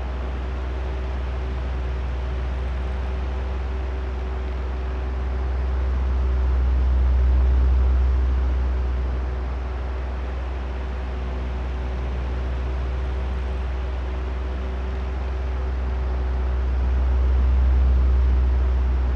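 Oscillating electric fan running steadily: a motor hum under a rush of air, with a low rumble that swells twice, about ten seconds apart, as the head turns back and forth.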